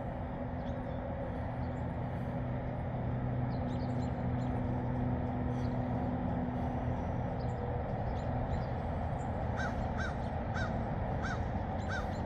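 A bird calling in a run of about six short, evenly spaced calls near the end, over a steady low rumble with a faint hum.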